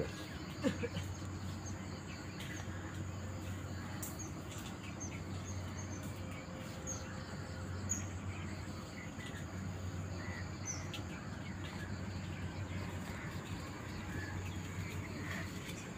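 Faint, scattered high bird chirps, short and irregular, over a steady low hum and outdoor background hiss.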